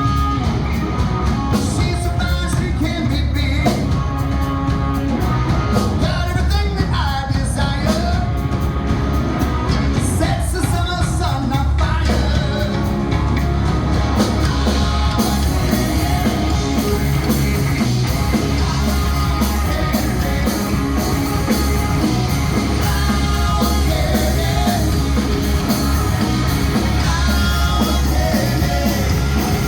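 A rock song with a singing voice over guitar, bass and drums, played steadily and loud throughout; the cymbals and high end fill out about halfway through.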